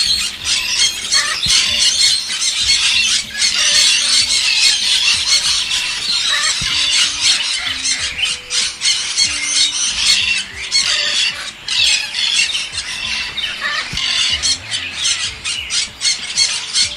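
A flock of birds squawking and chattering all at once, a dense, continuous high-pitched din of many overlapping calls.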